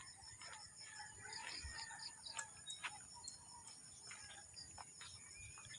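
Faint, scattered calls of chickens and other birds, short clucks and chirps one after another, over a steady high-pitched drone.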